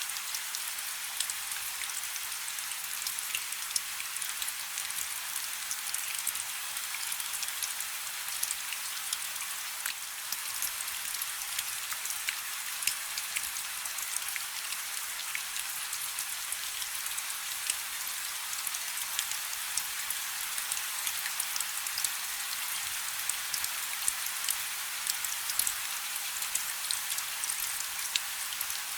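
Steady rain falling on a river: a constant high hiss dotted with many small, crisp drop ticks.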